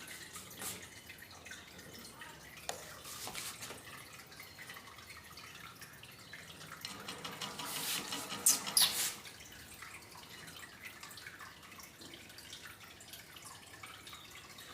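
Budgerigars chattering quietly amid faint scattered clicks, building to a burst of sharp high chirps about eight to nine seconds in.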